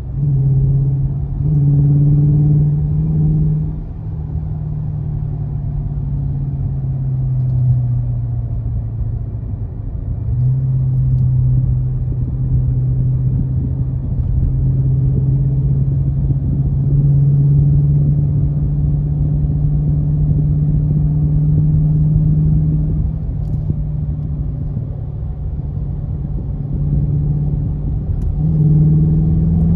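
Dodge Charger R/T's 5.7-litre HEMI V8 exhaust droning while driving in sport mode with the exhaust valves open. The engine note drops about four seconds in, climbs again around ten seconds, and rises near the end.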